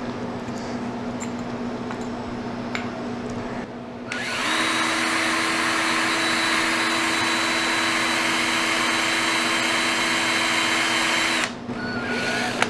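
A motor-driven machine runs with a loud hiss and a steady whine for about seven seconds, starting suddenly about four seconds in and cutting off sharply. A steady low hum sits under it throughout, with a few light clicks before the machine starts.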